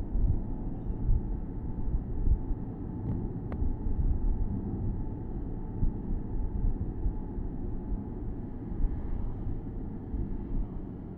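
Porsche Boxster S (987.2) flat-six running steadily on the move, with low tyre and wind rumble heard from the open-top cabin. A single faint click comes about three and a half seconds in.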